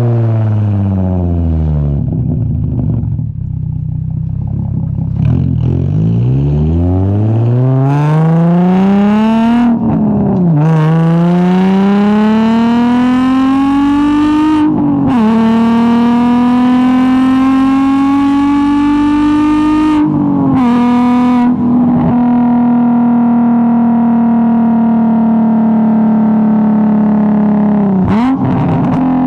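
Straight-piped Infiniti G35's 3.5-litre V6 through a single-exit exhaust, driven hard through the gears. The pitch falls at first as it slows, then climbs in three long pulls, each cut by a sudden drop at a gear change, and it settles into a steady cruise with a brief dip near the end.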